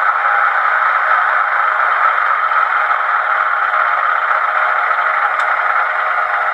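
HO scale MP36PH-3C model locomotive's LokSound Select sound decoder playing diesel locomotive sound through its small onboard speaker, a steady, thin, rattly running noise.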